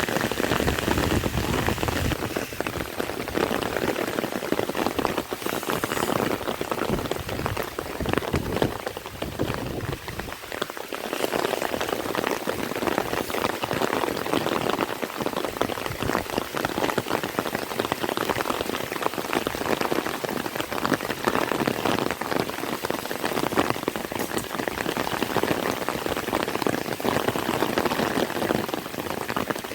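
Heavy rain falling, a dense steady patter of drops that eases briefly about a third of the way in.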